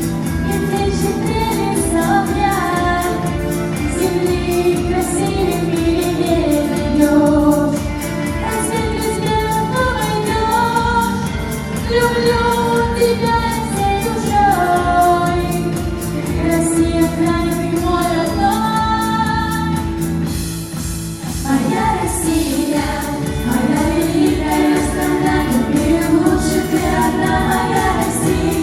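A song performed live: voices singing over accompaniment with a steady beat.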